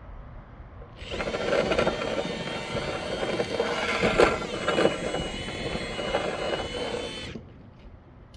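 Power drill running steadily for about six seconds, starting about a second in and stopping near the end.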